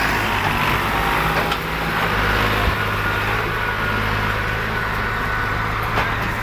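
Farm tractor's diesel engine running steadily with a low, even hum.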